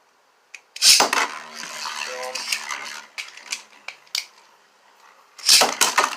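Beyblade spinning tops launched into a plastic stadium: a sharp clack as they land about a second in, then clattering and rattling clicks as they spin and clash, and another loud collision with more clattering near the end.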